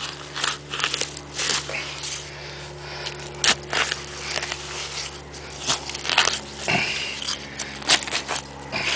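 Digging and rummaging through wet beach sand and muck: irregular crunches and scrapes, a few sharper than the rest, over a faint steady low hum.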